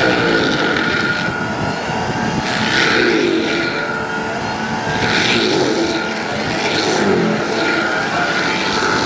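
Excavator-mounted forestry mulching head, an Indeco IMH 15 on a SANY SY215CLC with a Cummins QSB6.7 diesel, running under load. A steady high whine is joined by a rising and falling engine note, and a burst of harsh grinding comes about every two seconds as the drum chews into brush and wood.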